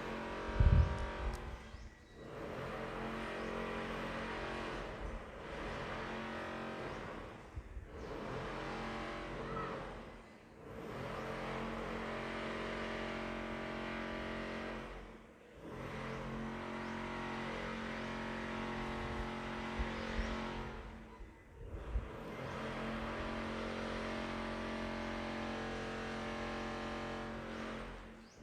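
A motor engine running in repeated stretches of a few seconds, each rising and dropping away, with a loud low thump about a second in.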